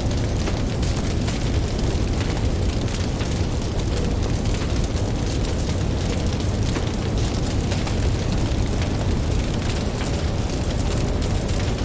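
Campfire crackling with many small, irregular pops, over a steady low rumble of ocean waves.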